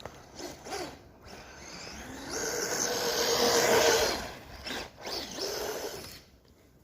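Traxxas Rustler 4x4 RC truck's electric motor whining in bursts as it is throttled up and down, the pitch rising and falling; the longest, loudest run is about two to four seconds in, with shorter bursts before and after.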